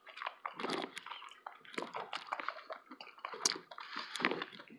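A person chewing a mouthful of breakfast burrito close to the microphone: irregular mouth clicks and smacks.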